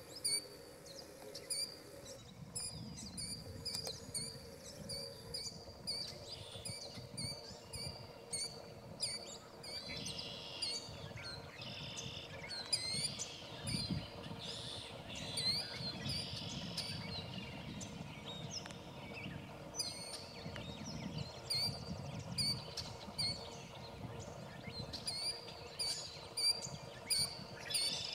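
Several birds calling, with many short, high chirps repeated throughout, over a low background rumble.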